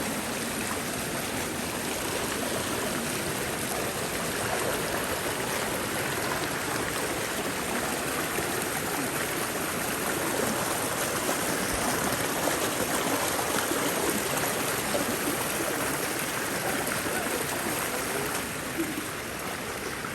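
River water rushing over stones, a steady even rush; the river is running full after rain.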